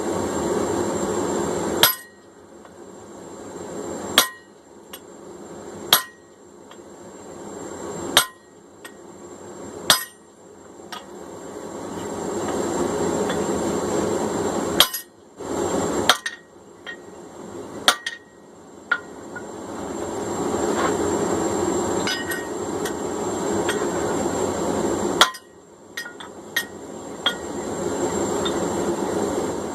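Hand hammer blows ringing on steel, about a dozen single strikes spaced irregularly one to a few seconds apart, driving a drift through the eye of a hot forged cross peen hammer head. A steady rushing noise runs between the blows.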